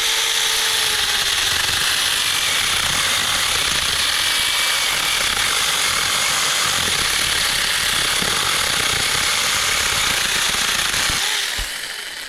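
Cordless 6-inch mini chainsaw running at full speed while cutting through a branch. It runs steadily for about eleven seconds, then is released and winds down near the end.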